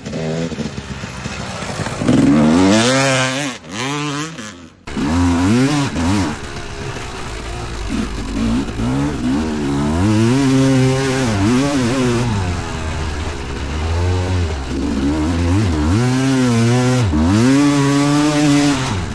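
Vintage two-stroke motocross bike engine being ridden hard, its pitch climbing and dropping again and again as the throttle is opened and shut through the gears.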